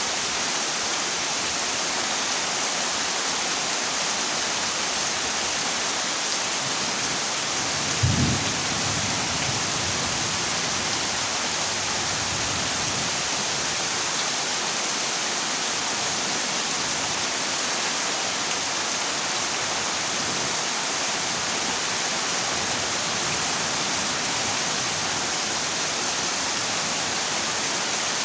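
Heavy rain drumming steadily on a corrugated zinc roof, with one brief low thunderclap about eight seconds in.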